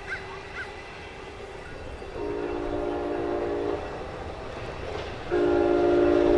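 Amtrak San Joaquin passenger train sounding its chime horn: a blast of about a second and a half, then a second, longer blast starting about five seconds in and still held at the end, over the low rumble of the train.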